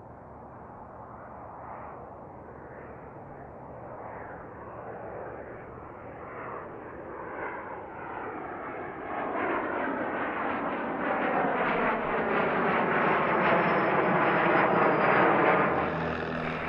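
Jet airplane's engines growing steadily louder as it approaches and passes, a sweeping, phasing hiss with a thin high whine that drops slightly in pitch in the second half.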